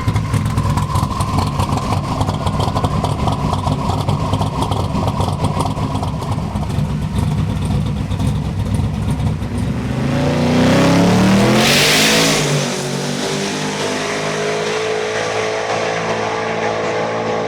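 Race vehicle engine idling with a rough, choppy rumble, then revving up about ten seconds in with a short loud burst of hiss, and holding a steady high note to the end.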